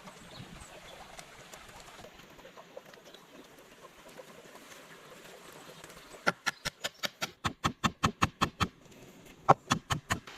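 A quick run of sharp knocks, about six a second, lasting a couple of seconds, then a second short run near the end.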